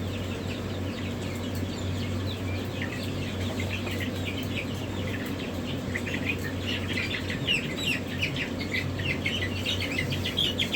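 Many young chickens peeping together in a hatchery pen: a dense run of short, high chirps that gets busier and louder in the second half, over a steady low hum.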